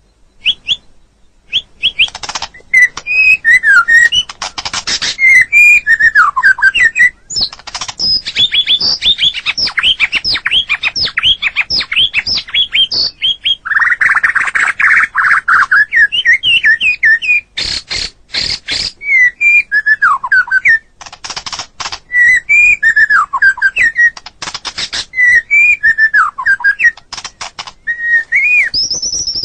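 White-rumped shama (murai batu) singing continuously: rapid, varied whistled phrases of sweeping notes, broken by sharp clicking notes and a harsh, hissing note about halfway through.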